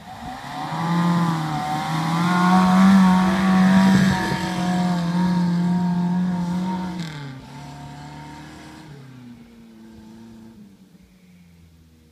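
1982 Suzuki LJ80V's stock 800cc four-cylinder engine revving hard under load as it climbs a sand dune, its pitch wavering with the throttle. About seven seconds in the revs drop and the engine fades as the vehicle goes over the crest and away.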